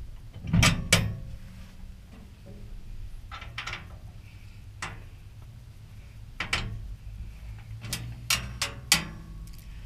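Scattered metallic clicks and clanks of steel rack parts and bolts being handled and fitted together during assembly, with the loudest knocks about a second in and a quick cluster near the end.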